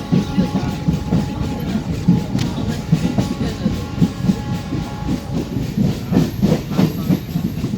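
Passenger train running on the track, heard from inside the coach: a steady low rumble of wheels on rails with continual uneven knocks and rattles.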